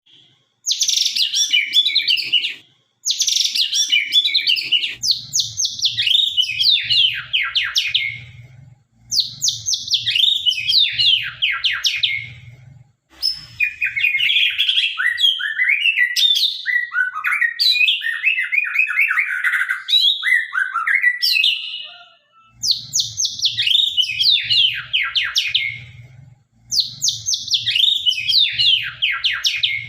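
A white-rumped shama (murai batu, Sabang line) singing sharp, loud phrases of rapid sweeping whistles and trills, in bursts of a few seconds with short pauses between. The middle phrases run lower and more varied. A faint low pulsing hum lies under part of the song.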